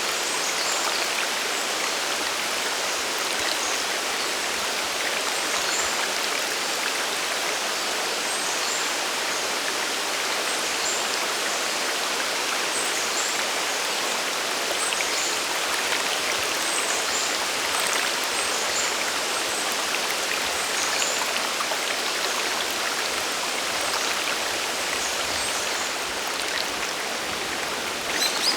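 Waterfall and mountain stream: a steady, even rush of falling and flowing water. Small high-pitched chirps are scattered throughout.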